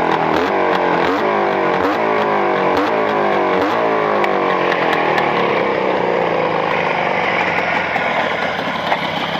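Motorcycle engine with freshly fitted Chinese cylinders, warmed up to operating temperature during running-in, revved in a series of quick throttle blips about once a second, each rising and falling back. About halfway through it settles to a steady idle.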